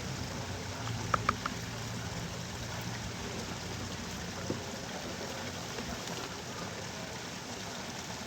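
Steady hiss of water, with a few short sharp clicks about a second in.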